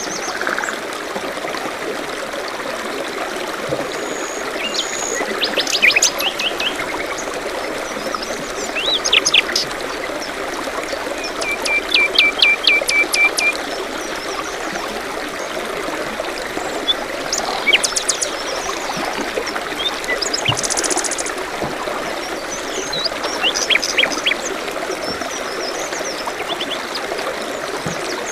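Small stream or brook trickling steadily, with songbirds calling at intervals over it: a quick series of about eight sharp notes around twelve seconds in, a short buzzy trill near twenty-one seconds, and other brief chirps.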